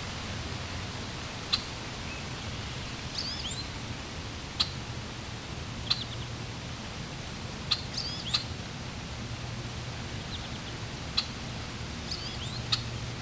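Small birds chirping over steadily flowing water: sharp single chip notes every second or two, and a few short twittering phrases.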